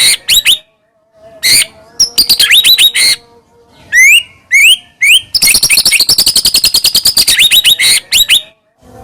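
White-rumped shama (murai batu) singing loudly: phrases of very rapid repeated notes and quick rising whistled sweeps, broken by short pauses.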